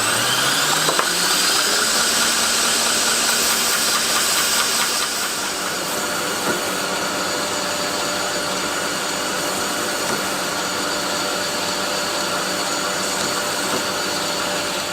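Belt grinder motor coming up to speed in the first second, then running steadily with a worn fine-grit belt (about 320–400 grit) sanding the fronts of knife handle scales to remove the scratches left by the previous grit.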